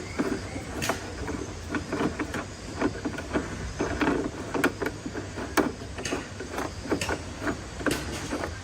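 Irregular sharp clicks and light knocks, several a second, over a steady low hum.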